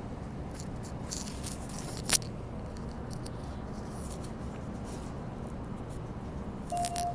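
Inside a Bombardier B-series electric train standing at a station: a steady low hum from the train, with one sharp click about two seconds in. Near the end a single steady warning tone starts, the signal that the doors are about to close.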